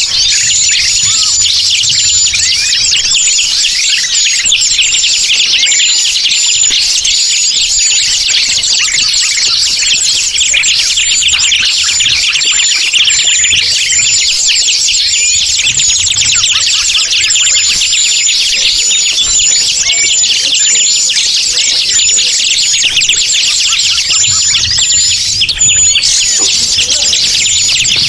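Forest bird-lure (pikat) recording: a dense, continuous chorus of many small birds chirping and twittering, with one high short note repeating at a steady pace over it.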